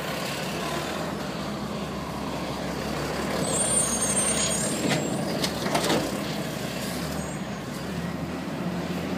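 Garbage truck engine running steadily, with a few clanks about five and six seconds in and a brief thin high squeal near the middle.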